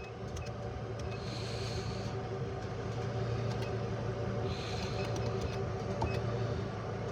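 Truck engine idling steadily, slowly getting louder, with a brief hiss every few seconds.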